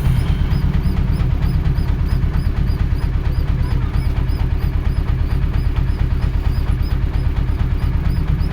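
A vehicle engine running steadily close by, with a fast, even low throb.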